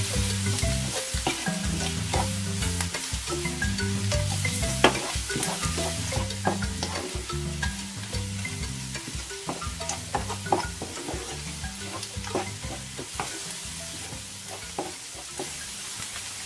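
Sliced onions and tomato paste sizzling in oil in a frying pan while a wooden spoon stirs them, with frequent light clicks and scrapes of the spoon against the pan. The sizzling grows quieter in the second half.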